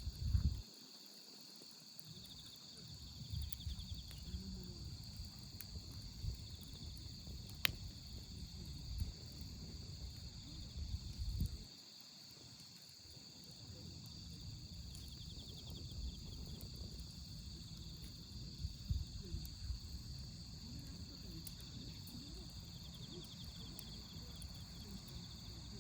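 Wood fire burning in a steel fire pit, with scattered crackles and one sharp pop about eight seconds in, over steady chirping of autumn crickets and other insects, with short pulsing trills now and then.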